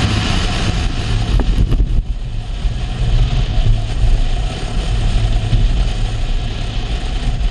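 Car engine running under load, heard from inside the cabin with wind noise coming through the open sunroof. The engine drone drops briefly about two seconds in, with a few faint clicks, then carries on steadily until it cuts off suddenly at the end.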